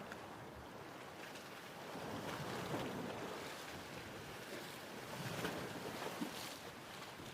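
Ocean waves washing in, swelling twice with some splashing.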